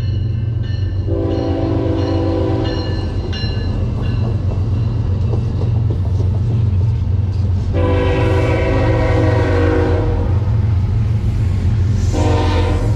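Diesel locomotive horn sounding several chord blasts, a short one about a second in, a longer one near the middle and another starting near the end, over the steady low rumble of a passing train.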